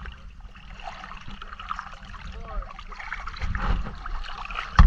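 Shallow seawater sloshing and trickling around someone wading, with one sharp knock near the end.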